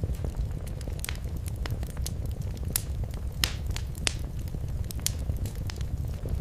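Fireplace fire crackling: irregular sharp pops and snaps over a steady low rumble, with a few louder pops about halfway through.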